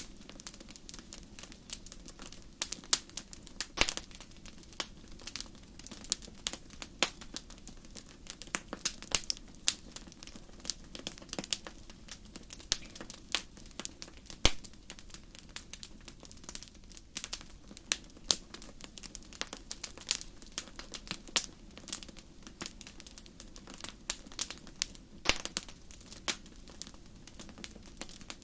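Fire crackling in a fireplace: irregular sharp pops and snaps, several a second, over a soft steady hiss.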